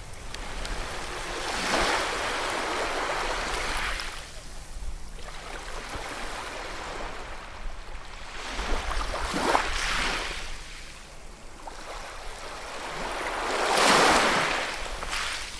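Sea waves washing onto a shore, a hiss that swells and falls away in surges: one about two seconds in, another around ten seconds, and the loudest near the end.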